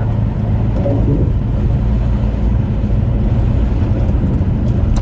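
Steady engine drone and road noise heard from inside a vehicle's cab while it cruises along the highway.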